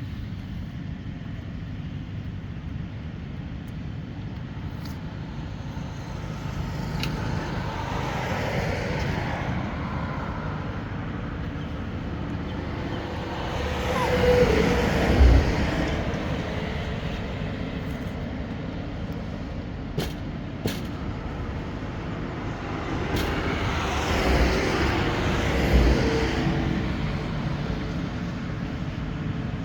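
Road traffic: a steady low rumble with vehicles passing by about three times, each swelling up and fading away, the loudest about halfway through. A couple of short clicks come near two-thirds of the way in.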